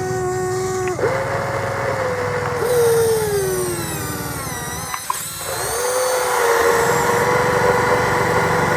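Electric motor whine from a radio-controlled construction machine working under load, its pitch shifting: a step up about a second in, a slow fall through the middle, a brief break about five seconds in, then rising again and holding steady.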